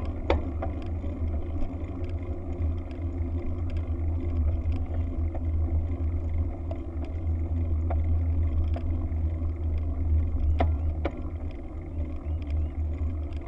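Wind buffeting the microphone during a bike ride: a steady, deep rumble. A few light clicks are heard, one near the start and a couple towards the end.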